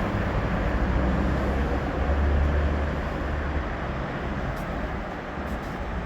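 Dubai Tram running along its track: a steady rushing noise with a deep rumble that swells about two seconds in and eases off after three and a half seconds.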